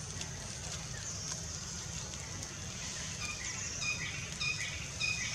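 A bird calling outdoors, repeating a short high note roughly every half second from a little past halfway, over a steady high-pitched hiss.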